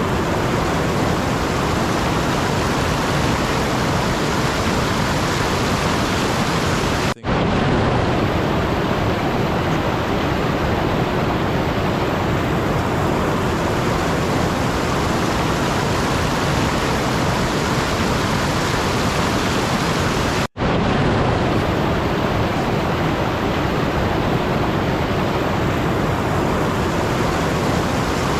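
Steady, even rushing noise with no pitch or rhythm. It breaks off twice for an instant, about seven and twenty seconds in.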